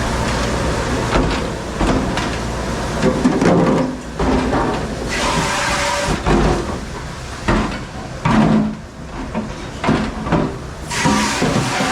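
Dishwashing machine running steadily, with irregular clattering and sliding knocks of racks and doors.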